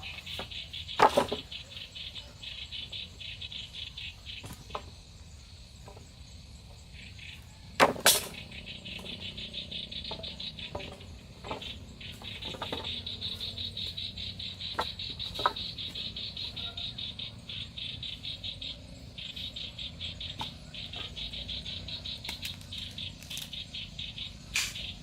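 Insects chirping in a rapid, steady pulsing trill, high in pitch. Occasional sharp clicks or knocks come through, the loudest about a second in and about eight seconds in.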